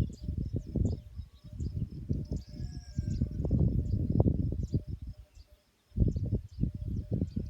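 Outdoor nature ambience: faint high chirps of birds and insects over a louder, uneven low rumble that briefly drops away a little past halfway.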